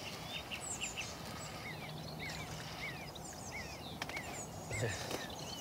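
Songbird chirping over riverside ambience: a run of short, quick chirps repeated every half second or so, with a few higher notes.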